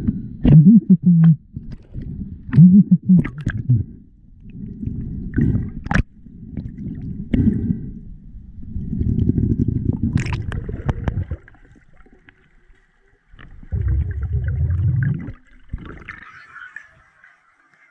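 Underwater gurgling and bubbling in uneven bursts, broken by sharp clicks and knocks, as a spearfishing diver moves underwater.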